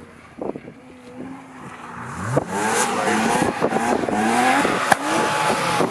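Ford Escort rally car's engine revving hard through the gears, its pitch climbing and dropping again several times as it accelerates and changes gear, louder from about two seconds in. A single sharp click about five seconds in.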